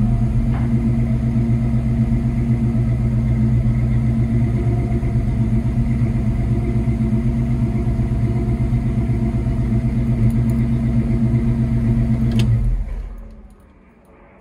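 1966 Ford Mustang restomod's engine idling steadily, heard from inside the cabin. About 13 seconds in it cuts off as it is switched off, and the sound dies away within a second.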